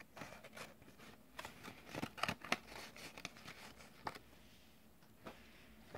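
Faint rustling and crinkling as a squishy toy and its small cloth outfit are handled while it is being dressed, with a few sharper crackles about two seconds in and again near four seconds.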